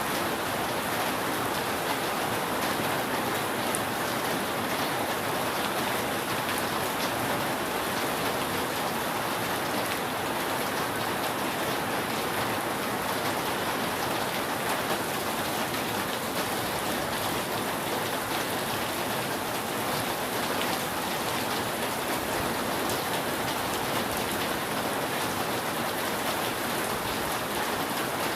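Steady rain falling on a roof: a dense, even hiss with faint ticks of single drops, unchanging throughout.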